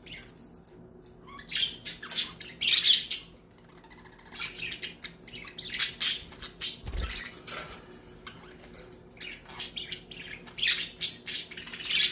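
Budgerigars squabbling, giving clusters of short, sharp squawks and chirps in three spells. A single low thump comes about seven seconds in.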